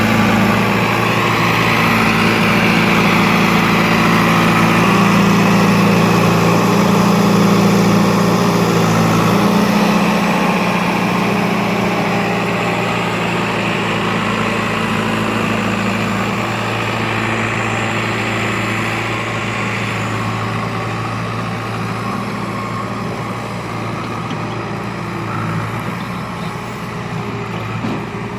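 Heavy diesel engine of a tractor or earthmover running steadily, a little louder for the first third and then slightly quieter.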